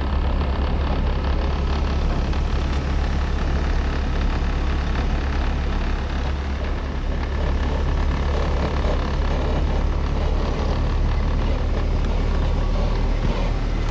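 A car being driven, its engine and road noise making a steady low rumble with a spread of hiss above it.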